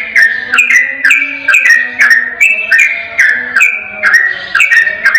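Sooty-headed bulbul singing its rapid, unbroken 'ropel' song: clear whistled notes that step up and down in pitch, about three a second, without a pause.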